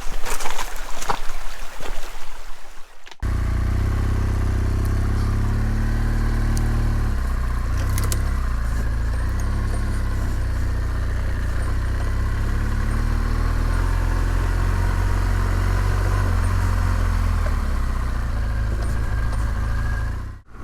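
A few sharp knocks in the first three seconds, then, after a sudden cut, a motorcycle engine running steadily under way, its pitch rising and falling a little.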